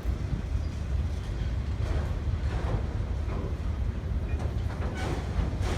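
Freight train rolling past: a steady low rumble with scattered short clanks from the wheels and cars.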